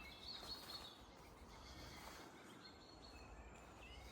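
Faint birdsong: a few scattered short chirps and whistles over a quiet background hiss.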